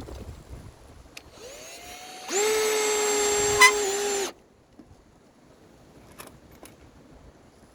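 Baur 20-volt cordless drill driving a small screw into a wooden board in its low-speed setting. The motor winds up softly, then runs at a steady high whine for about two seconds, with a sharp click partway through, and cuts off suddenly.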